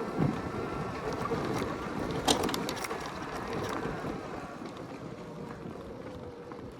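Motorcycle engine running while riding, with wind rushing over the microphone and a sharp click about two seconds in; the sound eases off in the second half.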